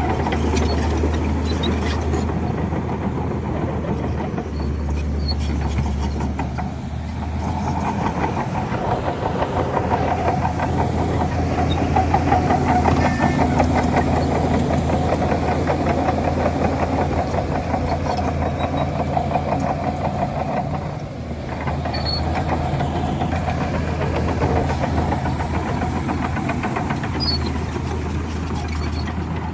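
Heavy diesel engine of a Shantui DH17C3 bulldozer running under changing load with a steady low drone. The engine builds in the middle and drops back briefly about 21 seconds in.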